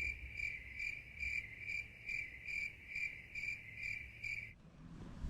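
Cricket chirping in an even rhythm, a high pulsed trill repeating about two and a half times a second, which stops abruptly near the end.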